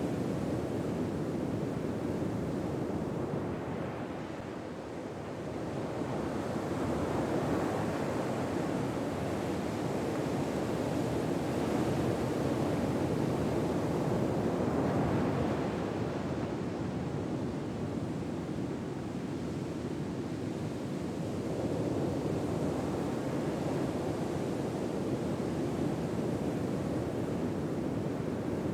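Ocean surf: a steady rushing wash of waves that swells and ebbs slowly, over several seconds at a time.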